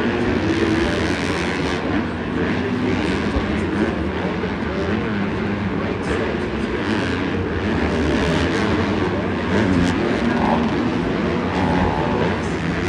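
Several supercross dirt bikes racing, their engines revving up and down together.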